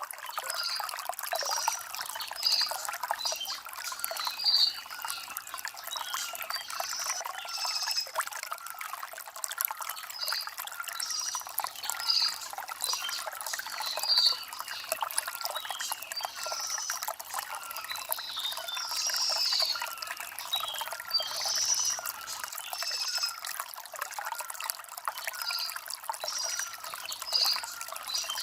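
Stream water trickling over stones, with small birds chirping over it in short calls repeated every second or two.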